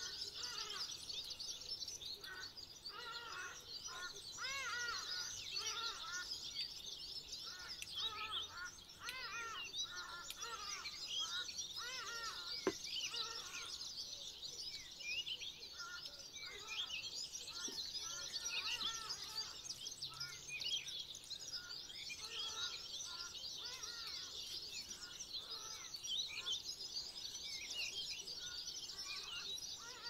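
Many small birds chirping and singing continuously in a dense chorus of short high calls, with one sharp click about halfway through.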